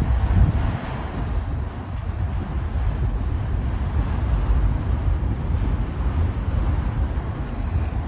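Freight train rolling past: a steady low rumble of wheels on the rails.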